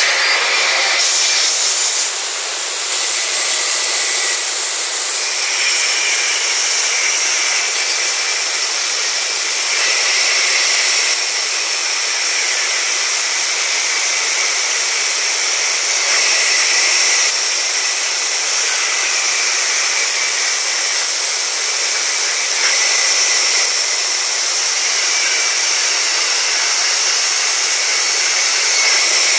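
Sawmill saw running through timber: a loud, steady hiss with no engine beat, its tone shifting abruptly a few times.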